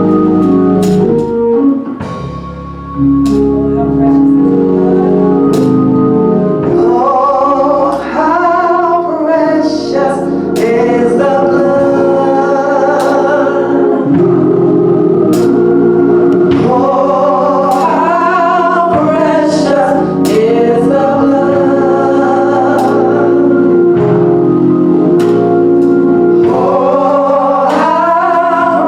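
Gospel song: held organ chords, then voices come in singing over the organ about seven seconds in, with light percussion ticks keeping time.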